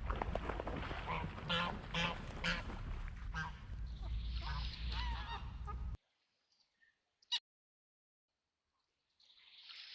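Ducks quacking repeatedly over a low steady rumble, cutting off abruptly about six seconds in. Then near silence with one sharp click, and a soft hiss swelling near the end.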